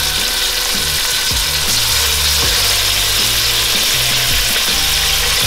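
Chicken thigh pieces sizzling in hot oil in a frying pan as they are laid in skin side down to sear: a steady, even hiss.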